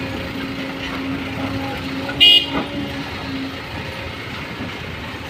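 A vehicle horn gives one short, loud toot about two seconds in, over a steady low hum.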